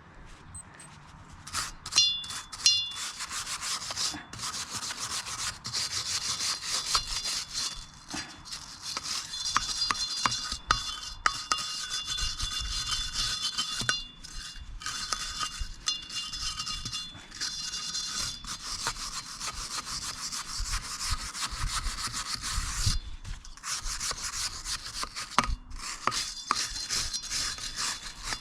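Steel wire brush scrubbing rust off a steel wheel rim, a continuous rapid scraping with a high ringing tone through parts of it. The rim is being cleaned before anti-rust paint.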